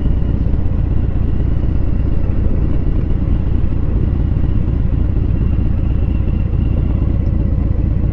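Motorcycle running steadily on the road, its engine mixed with a heavy low wind rumble on the helmet microphone.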